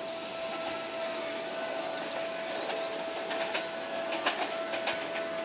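Seibu 30000-series electric train moving through the station: a steady whine with wheel clicks over rail joints that come more often in the second half.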